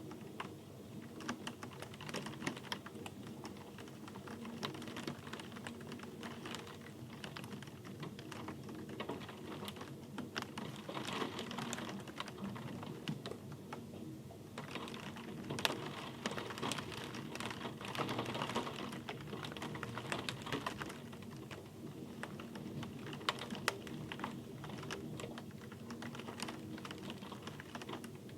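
Rain falling, with many irregular close drops tapping sharply over a steady patter.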